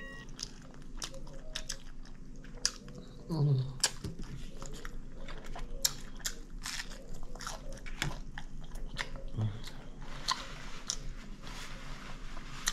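Close-miked chewing and wet mouth clicks of a person eating, with a couple of brief low hums.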